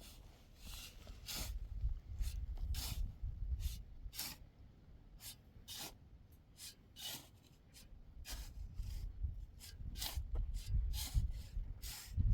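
Irregular short scraping or rubbing strokes, roughly one or two a second, over a low rumble.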